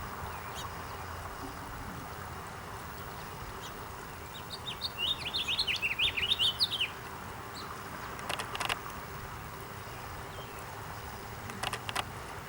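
A finch twittering: a quick run of high chirps lasting about two and a half seconds midway, over a steady background hiss. A few short sharp clicks follow later.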